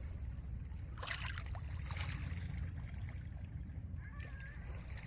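Small lake waves washing in over a pebble beach, one surge about a second in that hisses up and fades, over a steady low rumble of wind.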